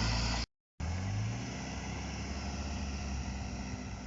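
Engine of a UAZ off-road vehicle running steadily, with a brief cut to silence about half a second in.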